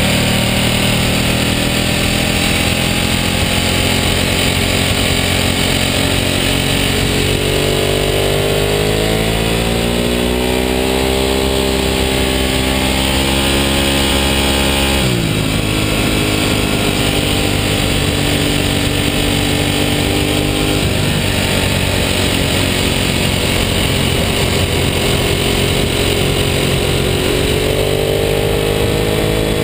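Ducati superbike's V-twin engine running under way at speed, with wind and road noise. Its pitch climbs steadily for several seconds, drops suddenly about halfway, and rises again near the end.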